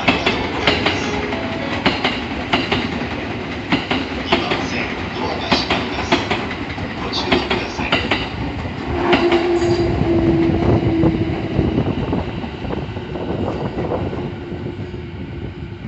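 A train rolling past over rail joints, its wheels clattering in a quick run of clacks, with a steady tone joining about nine seconds in and the sound fading near the end.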